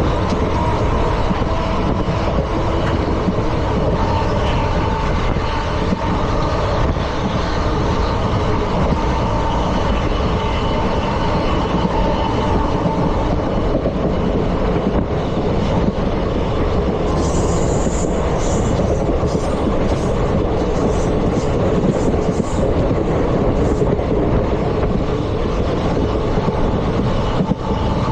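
Indian Railways ICF passenger coaches running along the track: a steady, loud rumble of wheels on rail. A high hiss comes and goes for several seconds about two-thirds of the way in.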